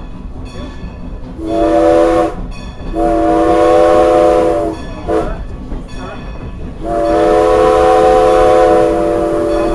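Steam locomotive's chime whistle sounding the grade-crossing signal, long, long, short, long, over the steady rumble of the moving train. The last long blast is still held at the end. It warns of the train's approach to a road crossing.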